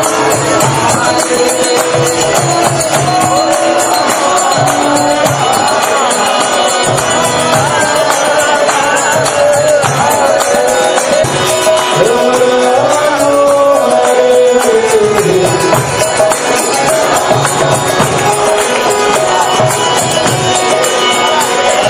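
Devotional group singing of a chant, with a steady drum beat and jingling percussion.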